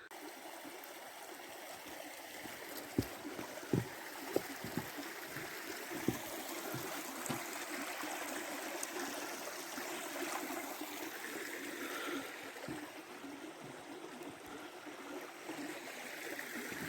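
Steady running water, like a stream, with a few soft knocks in the first half.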